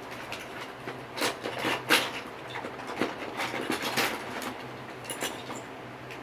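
Someone rummaging through small hard objects: irregular clicks, knocks and clatter over soft rustling, the loudest knock about two seconds in.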